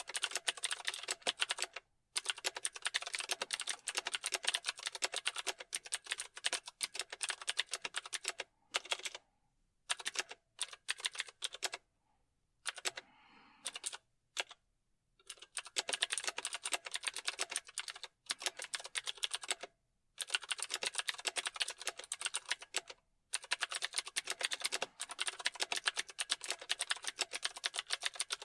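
Fast typing on a computer keyboard, a steady run of key clicks broken by short pauses, with a sparser, halting stretch of a few keystrokes and gaps about a third of the way in.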